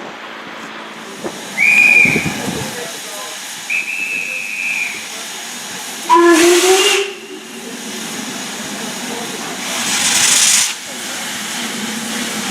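Steam locomotive at a station: a high single-note whistle is blown twice, then the locomotive's steam whistle sounds briefly about six seconds in. About ten seconds in, steam hisses loudly for a second.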